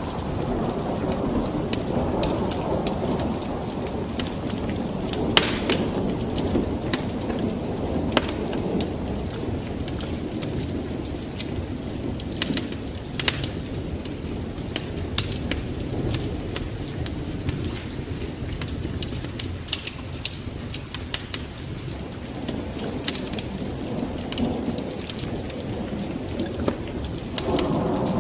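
Wood fire in a fireplace crackling, with sharp pops scattered irregularly over a steady low rushing sound.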